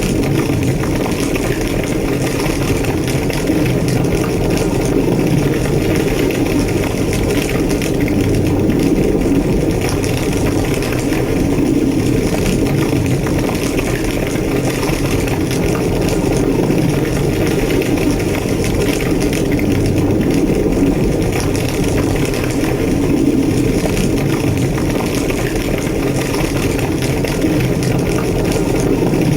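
A large structure fire burning, a steady low roar with crackling running through it.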